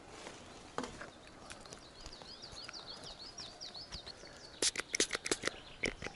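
A small bird singing a fast run of short, high, falling chirps, about three a second. About four and a half seconds in, a quick cluster of sharp knocks and rustles from fabric and a hand brushing against the camera's microphone; these are the loudest sounds.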